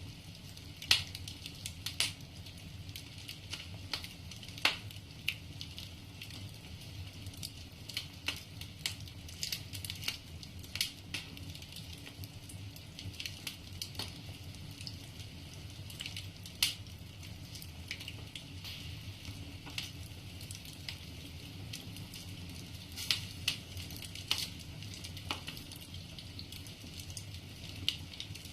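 Wood fire burning in a fireplace: logs crackling with irregular sharp pops, a few of them louder, over a steady low rumble and hiss of the flames.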